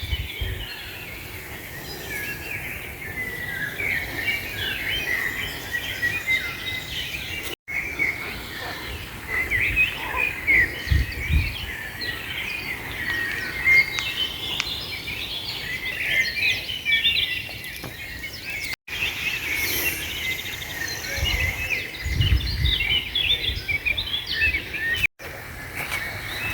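A chorus of many small birds chirping and singing at once, a dense overlap of short high calls. It breaks off three times for an instant where the recording is cut.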